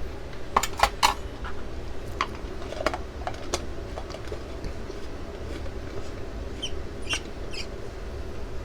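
Light clinks and taps of glass and metal kitchenware being handled, over a steady low hum.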